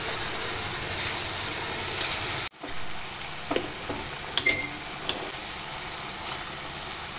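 Onion-tomato masala sizzling in a pan, a steady frying hiss that drops out for a moment about two and a half seconds in. Around the middle come a few sharp clinks of a metal spoon against the pan, one ringing briefly.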